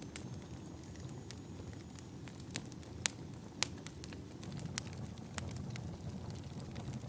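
Wood fire burning in a fireplace: a steady low rumble of flames with irregular sharp pops and crackles of the logs, the loudest pops about three seconds in and just after.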